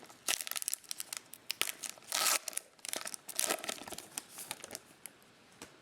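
Foil wrapper of a trading-card pack crinkling and tearing in irregular rustling bursts as it is handled and opened.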